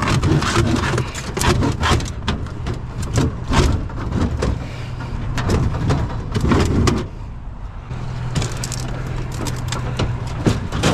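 Scrap items being shoved and wrestled into a packed vehicle load: repeated knocks, clanks and scrapes, over a steady low vehicle hum.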